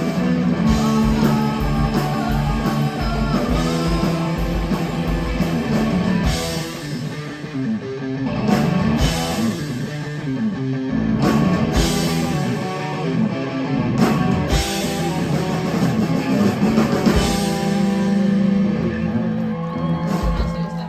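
Live heavy rock band playing electric guitars, bass and drum kit in a loud, dense instrumental passage, with no singing. The music stops abruptly at the very end.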